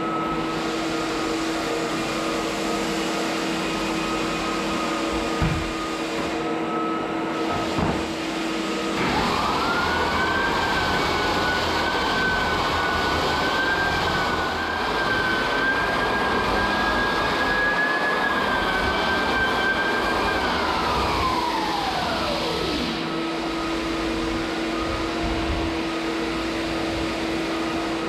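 A steady machine hum, with a couple of knocks. About nine seconds in, an electric motor spins up to a steady high whine, runs for about eleven seconds, then winds down in a falling glide to a stop.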